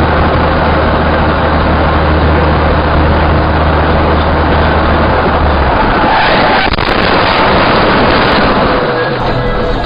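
Loud, steady road and engine noise of a moving car as picked up by a dashcam, with a low hum that drops out a little over halfway through.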